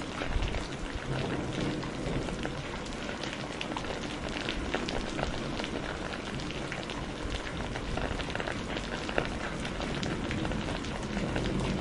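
Steady, heavy rain, with many individual drops striking close by throughout.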